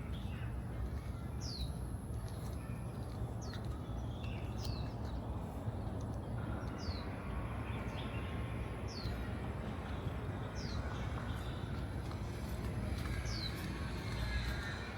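A bird repeating a short, high, falling call note every one to two seconds, over a steady low rumble.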